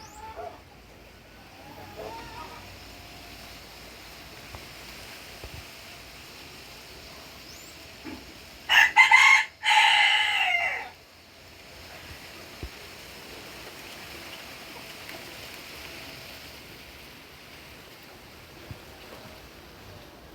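A rooster crowing once, a loud call of about two seconds in two parts whose pitch falls away at the end, over a faint outdoor background.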